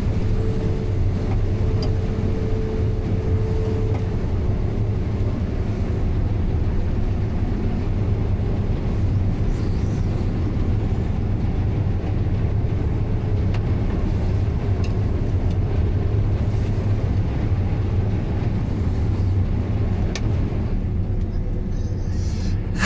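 Heavy farm vehicle's engine running steadily, a constant low drone.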